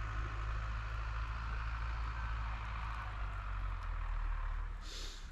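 Farm tractors working a field at harvest, their engines running steadily at a distance as a continuous low hum. A brief hiss comes near the end.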